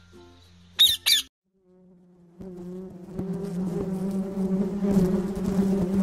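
Two loud squawks from a blue-and-yellow macaw about a second in. After a brief gap, a mass of honeybees buzzing at the hive, a steady drone that grows louder.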